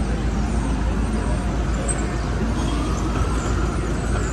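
City street traffic: a steady rumble of passing cars and buses. About three seconds in, a faint whine rises in pitch and then holds.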